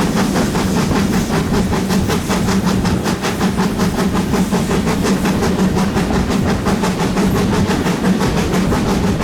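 GWR Manor class two-cylinder 4-6-0 steam locomotive 7820 Dinmore Manor working under steam, its exhaust beats in a steady rapid rhythm of about five a second.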